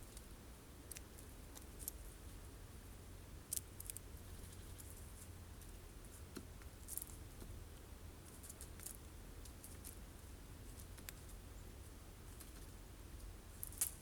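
Birds pecking at sunflower seeds on a feeder: faint, irregular sharp clicks and taps, the loudest just before the end, over a low steady rumble.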